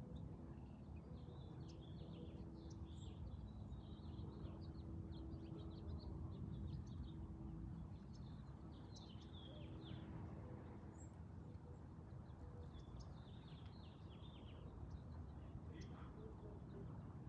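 Faint bird chirps, short high notes coming in several loose bursts, over a low steady background hum.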